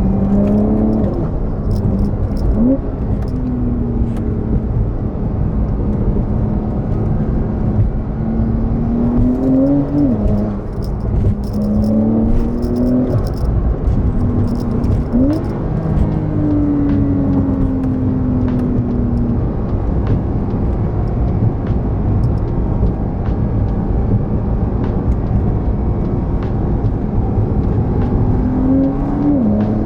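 Porsche 992 Carrera S's 3.0-litre twin-turbo flat-six, with a Stage 1 tune, pulling hard under acceleration. Its pitch climbs and then drops sharply at each upshift of the 8-speed PDK, several times over, with one long easing-off in the middle.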